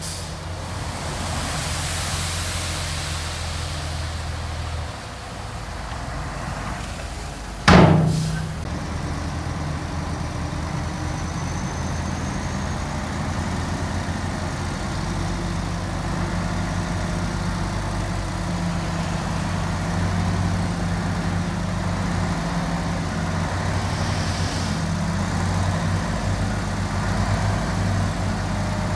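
Heavy diesel engine of earthmoving machinery running steadily. About eight seconds in there is a single loud bang that rings out briefly.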